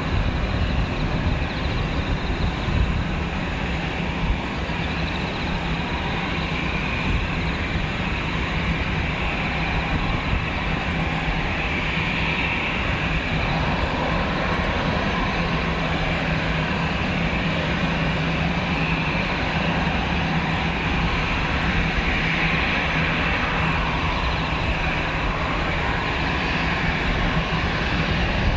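Airbus A320's CFM56 jet engines running at taxi idle, heard from off the airfield as a steady low hum with a hiss that swells gently now and then.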